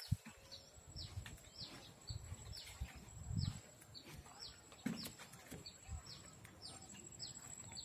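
A bird calling over and over, a short falling note about twice a second, over a low rumble of wind or movement on the microphone. A faint steady high-pitched whine runs underneath.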